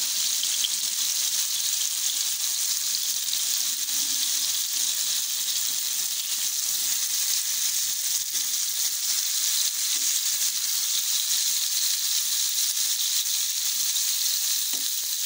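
Halved tomatoes and garlic cloves sizzling steadily in hot oil in a frying pan, with a few faint spatula knocks as the tomato halves are turned over.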